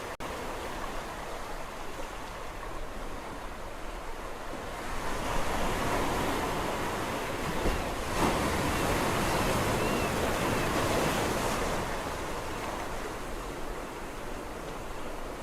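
Sea waves breaking on a shore: a steady wash of surf that swells louder from about five seconds in, holds for several seconds, then eases back.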